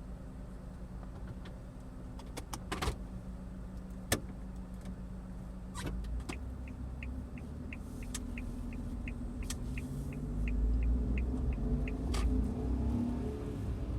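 Suzuki Every kei van idling steadily, with a few sharp clicks and knocks from inside the cab. Then comes the turn-signal relay ticking, about three ticks a second for some five seconds, while the engine's low rumble grows louder near the end.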